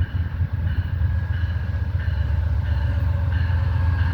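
Amtrak passenger train pulling into the station: a steady low rumble growing slowly louder, with faint high squealing tones coming and going.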